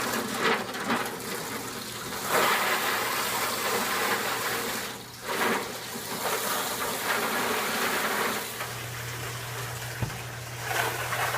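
Water running and splashing down through holes poked in the bottoms of containers, a homemade rain simulator, as a continuous rush that dips briefly twice. A steady low hum runs underneath.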